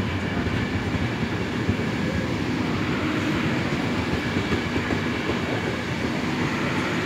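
Intercity passenger coaches rolling past a station platform: a steady rumble of wheels on rails that holds at an even level.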